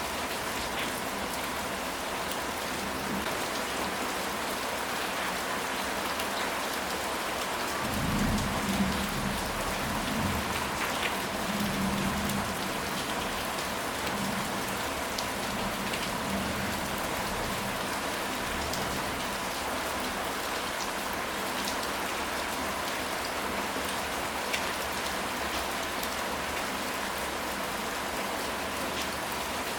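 Steady rain falling, with a low rumble of thunder starting about eight seconds in and fading away over several seconds.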